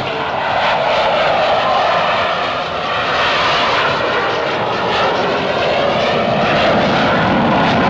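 Airplane engine noise as an aircraft flies past low and loud, with the sweeping, phasing whoosh of a fly-by.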